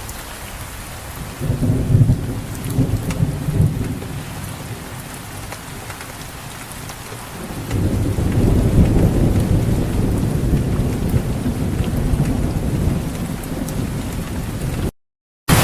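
Steady rain falling, with a low rumble of thunder about a second and a half in and a longer rumble starting about eight seconds in. The sound cuts out for a moment just before the end.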